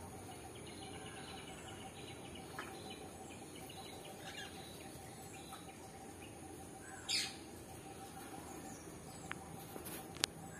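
Parrots at a feeding tray: faint scattered chirps and one loud, short screech about seven seconds in, over a steady insect drone. Two sharp clicks come near the end.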